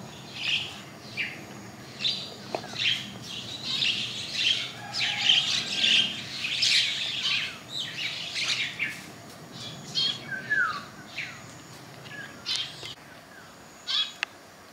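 Small birds chirping and calling outdoors, a busy run of short high chirps that thins out in the second half, with one short falling call about ten seconds in.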